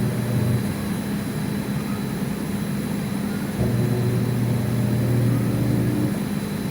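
Panasonic automatic washing machine running under test: a steady low hum, with the motor's deeper hum cutting in for a couple of seconds about halfway through and then stopping.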